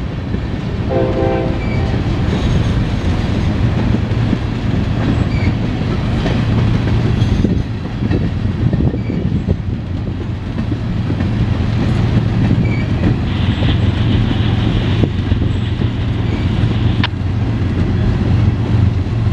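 A freight train's tank cars roll past, a steady heavy rumble with wheels clicking over the rail joints. A train horn sounds briefly about a second in.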